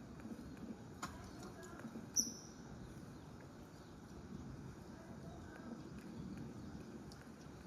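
Steady low outdoor rumble with light knocks, and one short, high, falling bird call about two seconds in.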